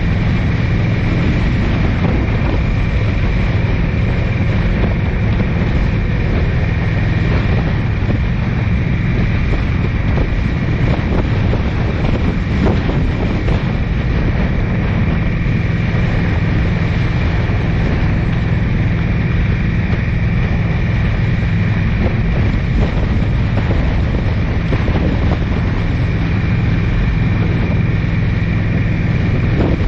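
A car driving at steady speed: a constant low engine-and-road drone with wind noise over the microphone.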